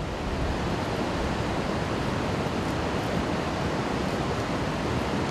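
Steady, unbroken rush of water, a dense even hiss with no breaks.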